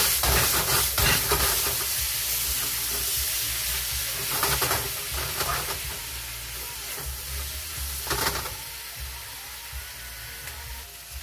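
Shrimp, dumpling and vegetable stir-fry sizzling in a hot wok, with a slotted spatula stirring and scraping against the pan in a few short strokes: at the start, around four to five seconds in, and again about eight seconds in. The sizzle eases off a little toward the end.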